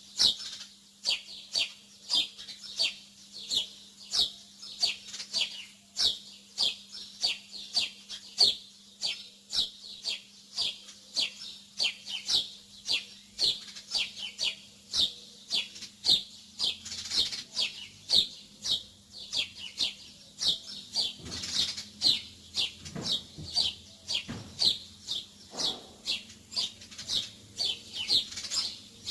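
Small birds chirping continuously: short, high, falling chirps about two to three a second, over a faint steady hum.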